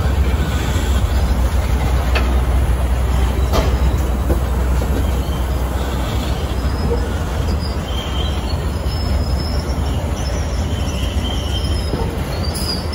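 Loaded open-top freight gondola cars rolling past close by: a steady heavy rumble of steel wheels on the rails, with short, faint high wheel squeals now and then in the second half.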